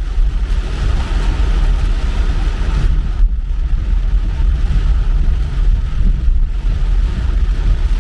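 Car driving along: steady low rumble of engine and road noise with a continuous hiss over it.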